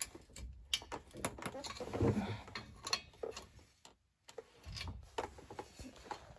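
Irregular metallic clicks and taps of a wrench working a small retaining clip off the truck's drive shaft, with a louder scrape about two seconds in.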